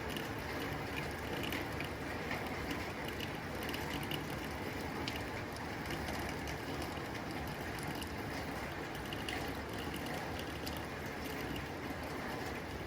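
Rain falling on a tin roof: a steady hiss of rain, with a dense, irregular scatter of sharp ticks and taps where drops strike the metal.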